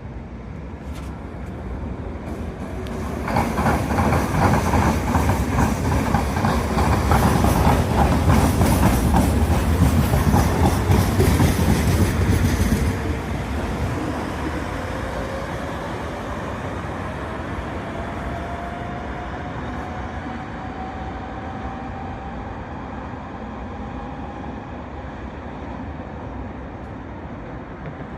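UV-type tram passing close, its wheels clattering loudly over the rails for about ten seconds, then running on more quietly with a slowly rising whine in the second half.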